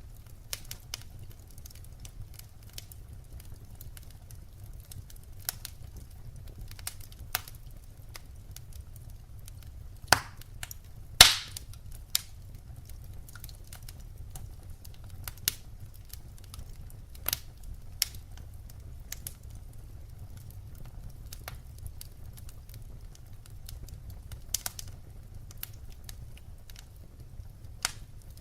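Firewood burning in a fire, crackling with irregular sharp pops and snaps over a steady low rumble. The loudest pops come about ten and eleven seconds in.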